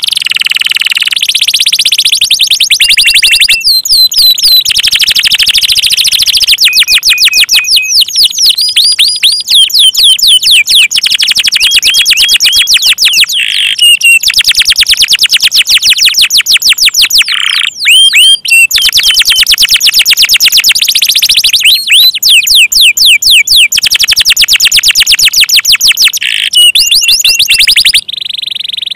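Domestic canary singing loud, fast trills: long runs of rapid repeated high notes that switch to a new pitch and tempo every second or two, with a short break about two thirds of the way through and a quieter phrase at the very end.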